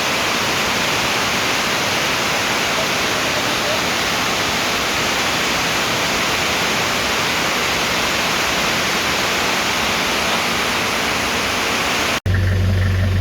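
Steady, loud hiss-like rushing noise with no pitch or rhythm, cut off abruptly near the end.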